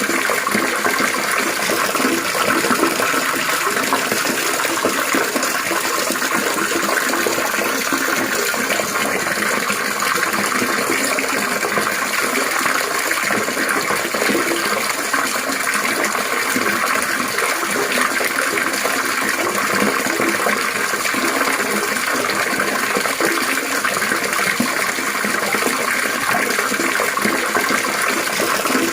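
Running water trickling and babbling in a steady, unbroken stream.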